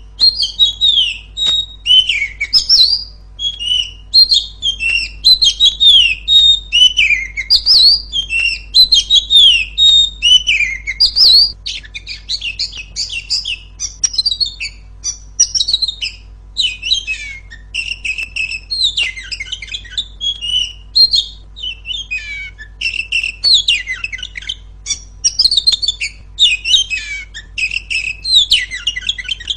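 Female Oriental magpie-robin (kacer) singing a continuous, loud string of quick, varied whistled phrases, many sliding down in pitch, with barely a pause between them.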